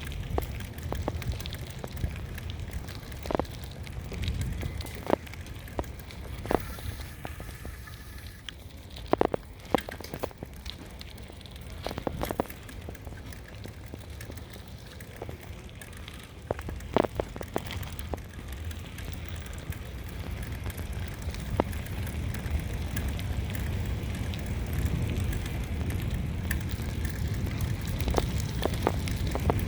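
Riding a bicycle with wind rumbling on the microphone, and scattered sharp clicks and knocks from the bike.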